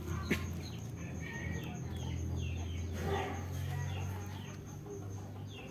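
Birds calling outdoors, a series of short, falling chirps repeating throughout, over a steady low hum, with a brief click near the start.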